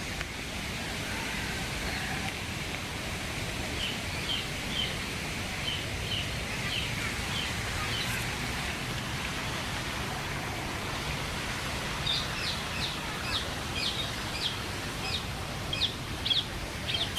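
A bird calling in runs of short, high chirps, about two or three a second, over a steady background hiss. A second, sharper and louder run of downward-slurred chirps starts about twelve seconds in.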